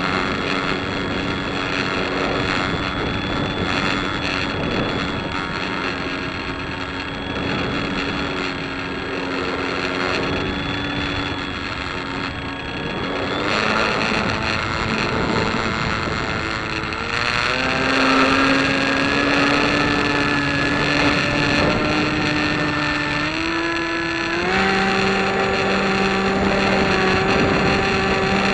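A piston engine running steadily, then its pitch steps up several times in the second half as it is throttled up, with wind noise over it.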